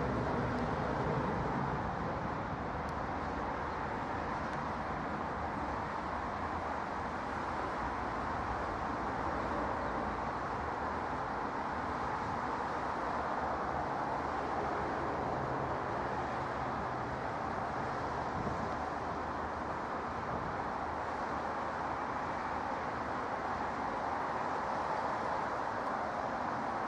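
Steady jet aircraft engine noise, a little louder in the first second or two, then even.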